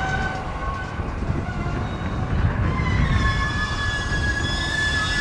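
Yamanote Line E235-series electric train running at the station platform with a steady low rumble. From about three seconds in, a high whine joins it and sinks slightly in pitch.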